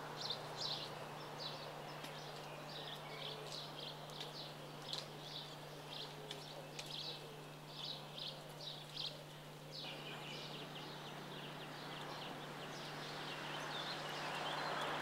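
Small birds chirping: short, high chirps repeating two or three times a second over a steady low hum and background hiss, which grows louder near the end.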